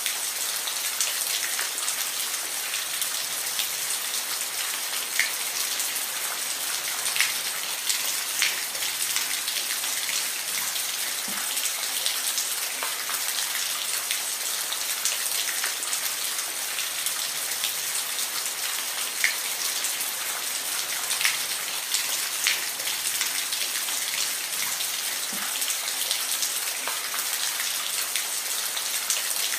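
Steady rain with a constant high hiss and individual drops ticking sharply here and there.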